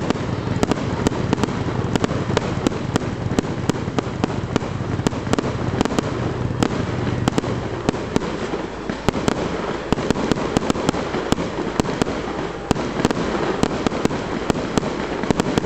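Aerial fireworks display: shells bursting one after another, a long, irregular run of sharp bangs and crackles over a continuous low rumble.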